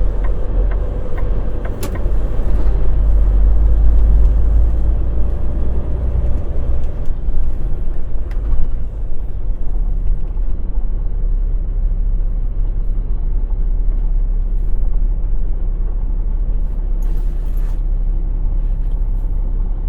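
Semi truck's diesel engine running under a loaded trailer, a steady rumble whose higher engine note drops away about seven seconds in. A brief hiss comes about seventeen seconds in.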